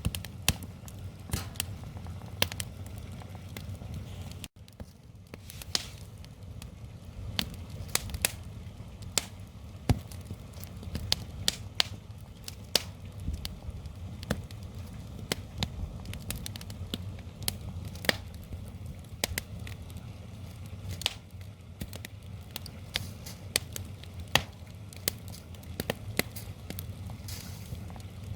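Wood fire crackling, with frequent irregular sharp pops and snaps over a low, steady rumble from the burning logs.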